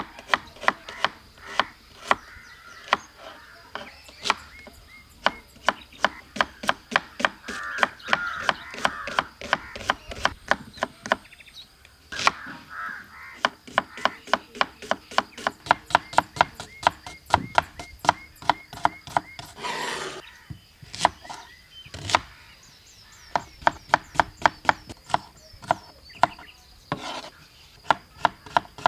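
A knife chopping food on a wooden board in a quick, steady rhythm of about three to four strokes a second. A crow caws a few times in the background.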